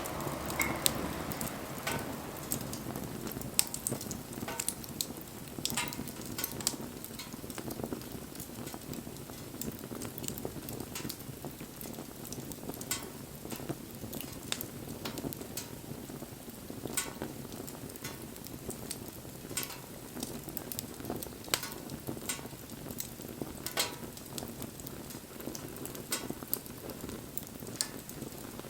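Wood campfire burning, crackling with sharp irregular pops over a steady low rush of flame.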